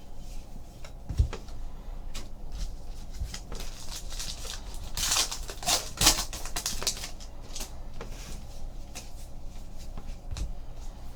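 Trading cards being handled and flipped through in small rustles and clicks, busiest about halfway.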